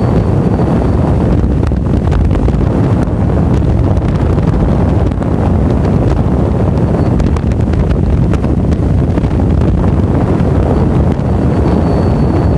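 Steady wind roar buffeting the microphone of a camera on a moving motorcycle, with the motorcycle's running and road noise underneath.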